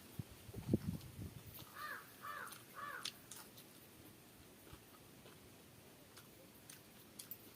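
Soft, close eating sounds, hand-mixing and chewing rice, with the loudest thumps about a second in, followed by a crow cawing three times in quick succession.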